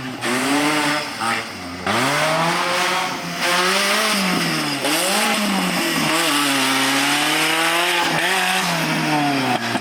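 Off-road 4x4 engine revving hard, its pitch rising and falling with the throttle, then held high for a couple of seconds before dropping away near the end.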